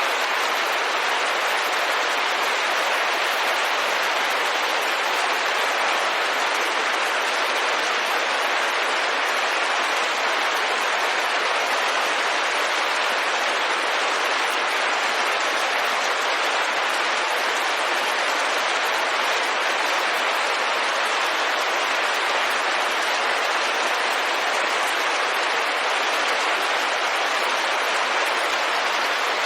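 Steady rain on a window: an even, unbroken hiss with no single drops standing out and no change in strength.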